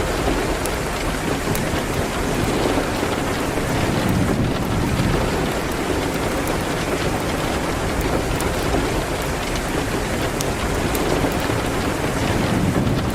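Steady rain falling hard, with scattered sharp ticks and crackles through it.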